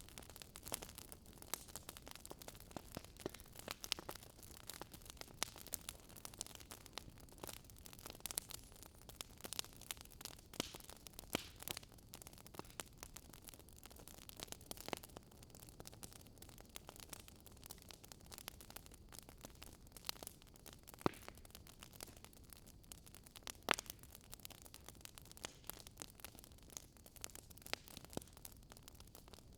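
Wood fire burning in a fireplace: a faint steady hiss with irregular sharp crackles and pops from the burning logs, a few louder pops scattered through.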